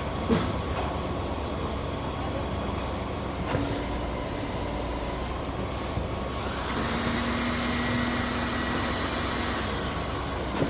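Heavy diesel engine of concrete-pouring machinery running steadily, with a rushing hiss joining about two-thirds of the way through.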